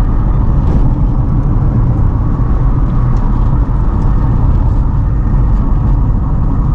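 A car driving along the road: a steady, low rumble of engine and tyres.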